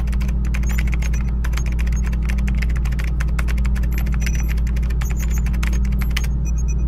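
Typing sound effect: rapid, irregular key clicks with small high-pitched blips over a loud, steady low drone.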